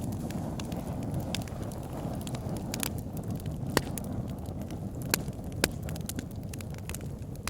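Wood fire burning in a log burner: a steady low rumble of flames with sharp crackles and pops from the logs, the loudest pops at about four, five and five and a half seconds in.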